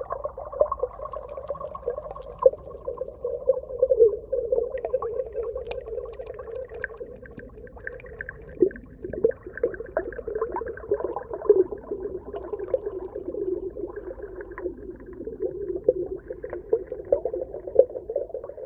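Underwater ambience: a muffled, continuous bubbling and gurgling with dense small pops and crackles.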